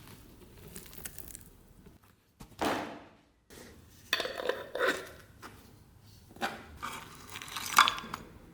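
Rummaging through the contents of an old metal first-aid box: a series of short clinks, knocks and scrapes of hard objects against metal, the loudest near the end.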